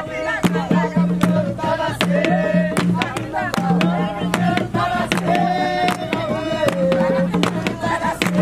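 Jongo music: voices singing over hand-beaten drums, with sharp drum strokes throughout.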